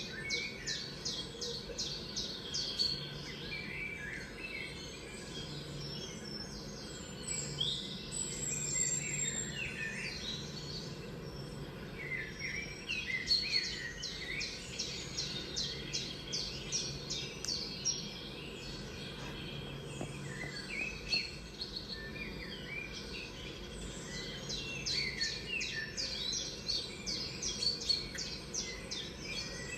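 Songbirds heard through a TV's speakers from a bird video. They sing fast trills of high chirps in bursts every few seconds, over a faint low steady hum.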